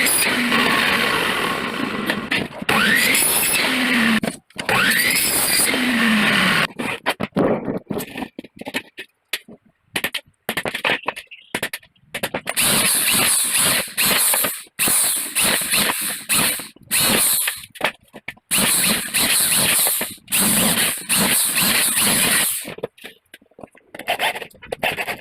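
Power tools working aluminium section, heard in a string of short, abruptly cut clips; early on a motor whine rises in pitch a couple of times.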